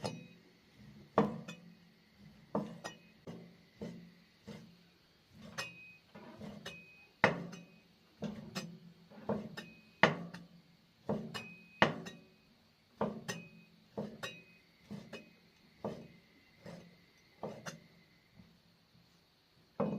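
Kitchen knife slicing pork on a wooden chopping board: a steady run of knocks, about one to two a second, each stroke hitting the board with a short clink.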